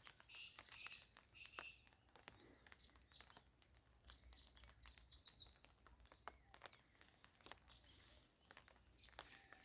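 Songbirds singing: two quick high trilled phrases, one about a second in and another around five seconds in, with scattered light clicks between.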